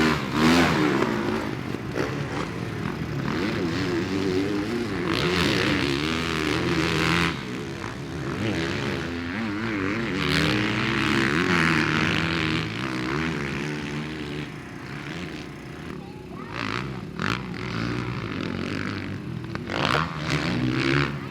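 Several motocross bikes racing on the track, their engines revving up and down as the riders work through the throttle and gears.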